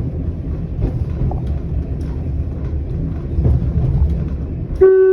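Single-car diesel railcar running along the line, a steady low rumble from the cab, then near the end the horn sounds a short high note.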